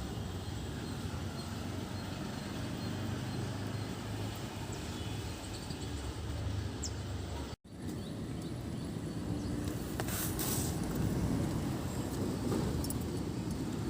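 Steady low outdoor background rumble with a few faint high chirp-like sounds, broken by a brief cut to silence about seven and a half seconds in.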